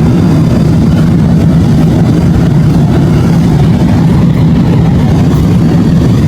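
A vehicle's engine droning loudly and steadily, with a strong low hum.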